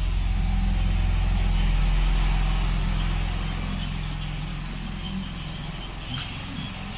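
A motor vehicle's engine running steadily at idle, a low hum that eases off a little after about three seconds.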